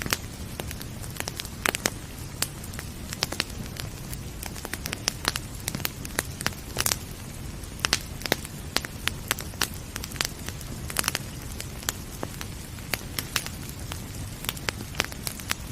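Wood fire crackling, with sharp pops at irregular intervals, several a second at times, over a steady low rumble of burning.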